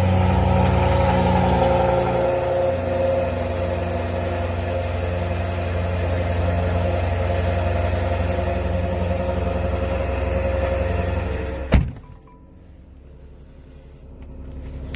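Jaguar F-Type SVR's supercharged 5.0-litre V8 idling steadily, heard from outside the car. About twelve seconds in, a single loud thud like a car door shutting, after which the engine sounds much quieter and muffled, as from inside the cabin.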